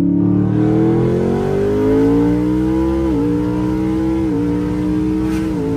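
Twin-turbocharged 5.0 V8 of a 2020 Ford F-150 accelerating hard at full throttle. The engine note climbs steadily, and the 10-speed automatic upshifts three times, each shift a quick drop in pitch followed by a new climb.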